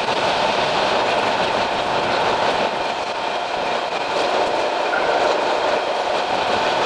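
Running noise of a Sangi Railway Hokusei Line narrow-gauge train, heard from the cab: a steady, dense rumble with faint whining tones over it.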